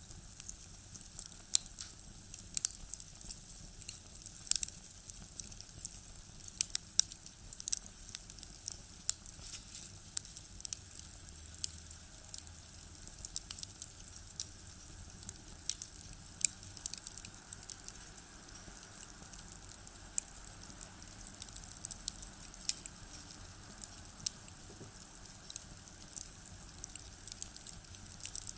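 Firewood crackling and popping as it burns in a small box stove, with irregular sharp snaps.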